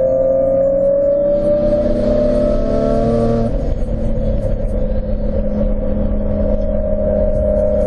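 Turbocharged 2002 Nissan Maxima's 3.5-litre V6 heard from inside the cabin under hard acceleration, its note rising steadily with a hiss over the top. About three and a half seconds in, the pitch drops suddenly as it shifts up, then the engine pulls and climbs again.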